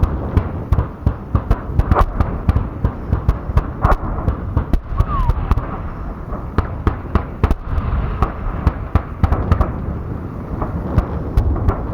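Many sharp cracks and pops at an irregular, quick pace over a steady low rumble. They come thickest near the start and thin out midway.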